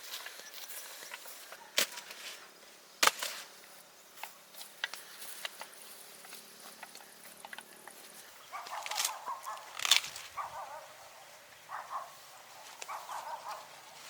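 A few sharp knocks, then from about eight seconds in, short bursts of chickens clucking.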